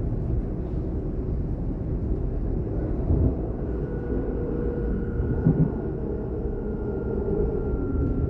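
DB Class 422 electric multiple unit running, heard on board: a steady low rumble with a faint steady whine above it, and two short thumps, about three and five and a half seconds in.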